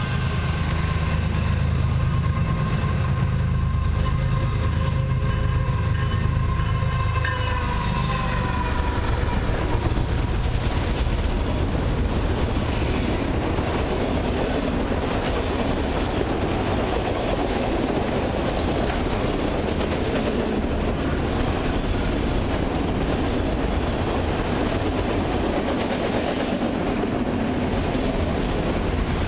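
Diesel freight locomotives passing with the horn sounding a chord that drops in pitch as they go by, about eight seconds in, along with their heavy engine rumble. After that, a long string of autorack cars rolls past with steady wheel noise and clacking over the rail joints.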